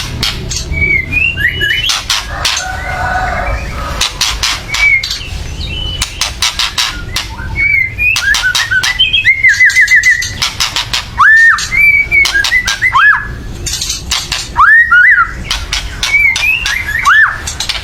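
White-rumped shama (murai batu) giving harsh, crackling "kretekan" calls, rapid clicking strokes broken by short whistled notes that sweep up and hook down.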